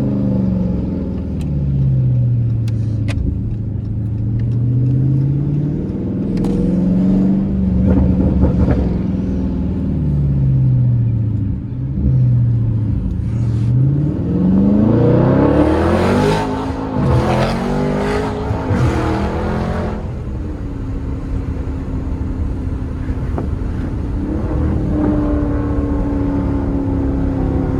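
Dodge Charger Scat Pack's 6.4-litre 392 Hemi V8 through a mid-muffler-deleted exhaust, accelerating hard. The pitch rises and falls several times and is loudest and raspiest about 15 to 20 seconds in, then settles to a steady drone.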